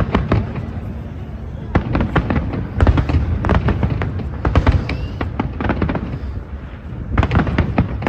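Fireworks going off in rapid, irregular clusters of bangs and crackles over a low rumble.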